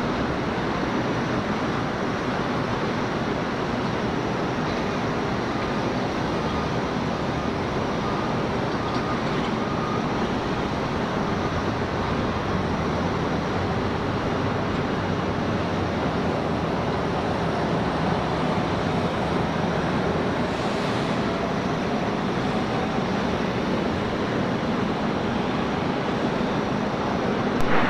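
Steady airport background roar of distant jet aircraft engines running, with a faint rising whine partway through.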